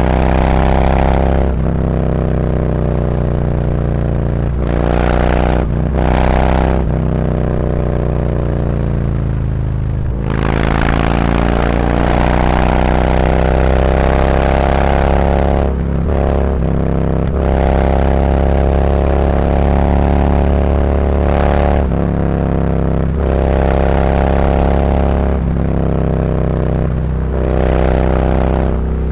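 Harley-Davidson Road Glide's V-twin through SuperTrapp slip-on mufflers with 4-inch internal discs, riding in city traffic. The engine note climbs in pitch, then dips briefly at each gear change, about every few seconds. Around ten seconds in it drops off and then pulls up again through a long rise.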